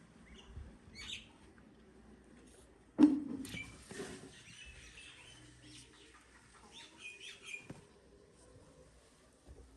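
Birds chirping in short calls, with one sudden loud sound about three seconds in.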